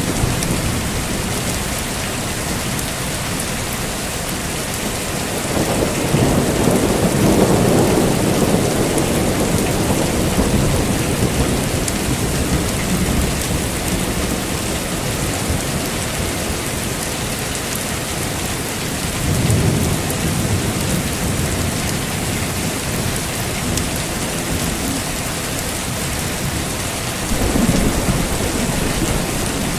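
Heavy steady rain with rolling thunder: a long rumble swells about five seconds in and fades over several seconds, with two shorter rumbles later, one near the end.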